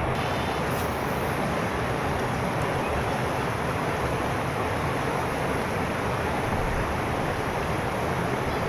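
A steady rushing noise that holds at one level throughout.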